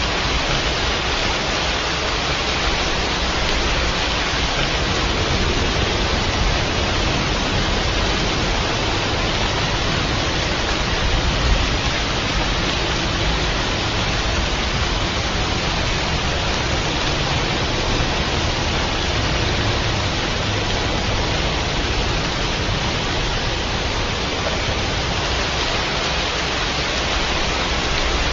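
Steady rain, an even continuous hiss with a deeper wash underneath.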